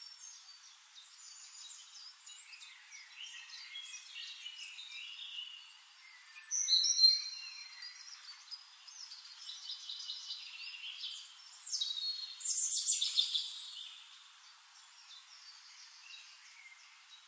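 Birds chirping and singing, several short calls and trills overlapping, with louder bursts of calls about seven seconds in and again around twelve seconds in.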